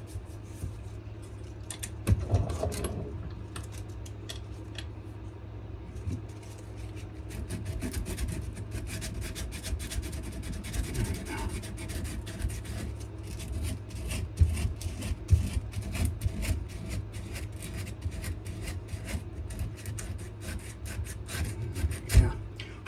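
Coarse-grit sandpaper rubbed by hand in quick repeated strokes over a wenge and maple knife handle: rough sanding. A steady low hum runs underneath, and there are a couple of knocks, about two seconds in and near the end.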